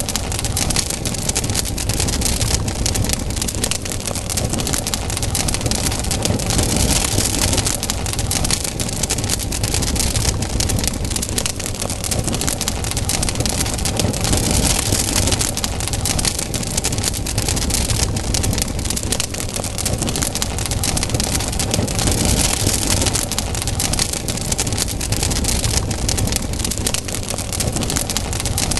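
Campfire burning: a dense, steady crackle of many small pops from burning wood, with a low rumble underneath.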